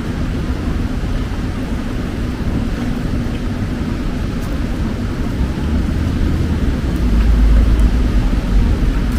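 Steady city street noise of traffic in heavy rain. A deeper low rumble swells about seven seconds in.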